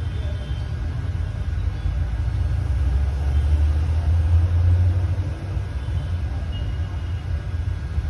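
A steady low rumble that swells for a couple of seconds in the middle and then eases back.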